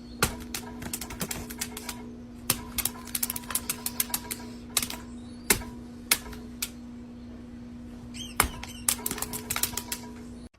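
Rapid, irregular clicking and tapping, like keys or claws on a hard surface, over a steady low hum. The clicks come in quick runs with short gaps and stop abruptly near the end.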